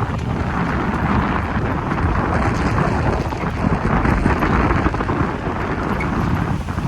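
Strong wind buffeting the microphone: a loud, steady rumbling rush with small swells in strength.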